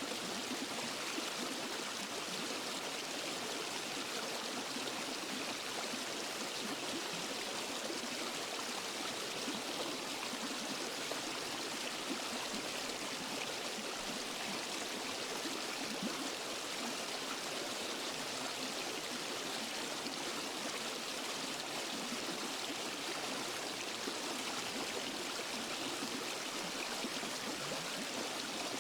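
Forest stream and small waterfall: water rushing and splashing steadily over rocks, an even hiss with no pauses or changes.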